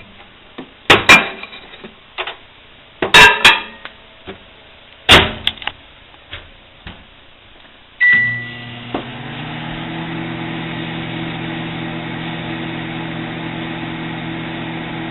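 Scattered clunks and clicks of a microwave oven being loaded and its door shut, then about eight seconds in a short beep and the microwave starts running with a steady hum.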